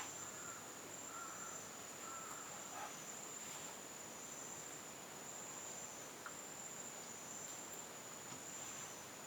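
Insect chorus giving a steady high-pitched drone with a faint pulsing edge. A few faint short notes sound in the first three seconds.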